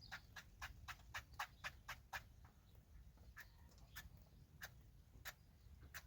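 Quiet series of sharp clicks or taps, about four to five a second for the first two seconds, then slowing to roughly one every half-second to a second.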